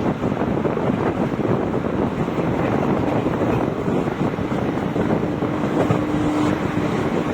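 Indian Railways passenger train running at speed: a steady rumble of the coach on the track mixed with wind rushing past the microphone. A faint steady tone comes in about five seconds in and lasts about two seconds.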